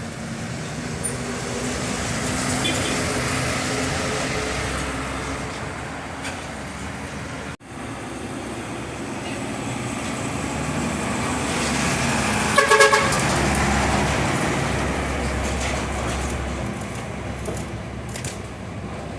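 Truck traffic on a road: engines droning, swelling and fading as vehicles pass. The sound drops out for a moment partway through. A brief horn toot comes about two-thirds of the way in.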